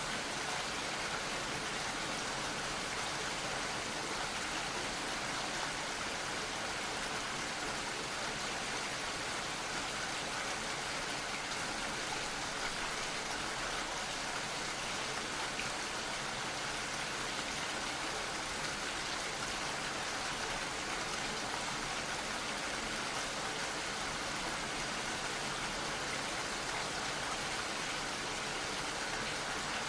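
Gentle rain falling steadily, an even hiss of many small drops.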